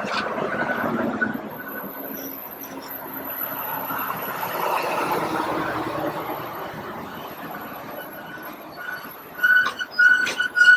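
Train rolling slowly, its wheels squealing on the rails over a rumbling noise that swells and fades. A run of sharp metallic clanks starts near the end.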